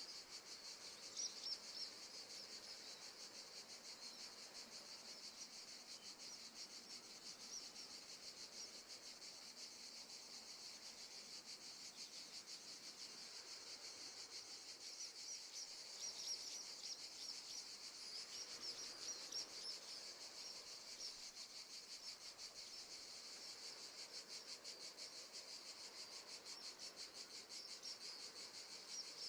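Faint crickets chirping in a steady, rapid pulsing trill, with a few bird chirps now and then.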